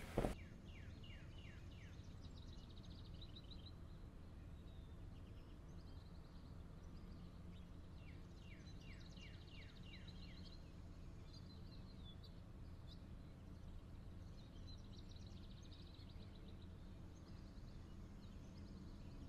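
Quiet room tone with a steady low hum, and faint birdsong from outside: runs of short, quick chirps falling in pitch, clearest about a second in and again around nine seconds in. A single shoe step on the wooden floor right at the start.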